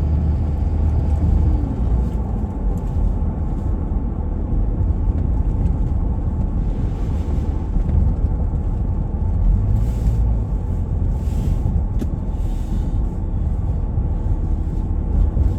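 Steady engine and road rumble heard from inside a moving vehicle's cabin, with a few brief, faint hisses partway through.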